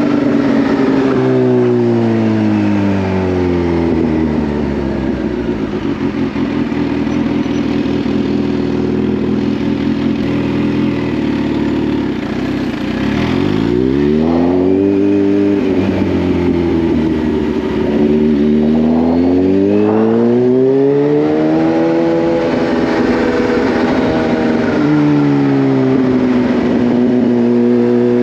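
Kawasaki Z H2's supercharged inline-four engine heard from the rider's position while riding. Its note falls over the first few seconds, holds steady, then rises and falls a few times as the throttle is worked, and drops in a step near the end before settling.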